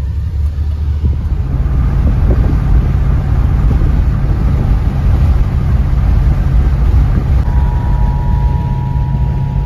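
Cadillac Coupe DeVille's engine running as the car drives, a steady low hum that picks up about a second in. A steady high tone comes in near the end.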